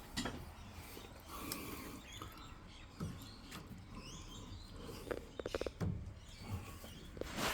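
Small clicks, scrapes and squeaks of washing-machine parts and tools being handled during repair work, with a quick rattling run of clicks about five and a half seconds in.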